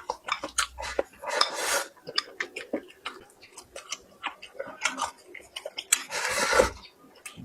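Close-miked eating sounds: a string of wet clicks and smacks from chewing, with two longer noisy rushes, one about a second and a half in and one near the end.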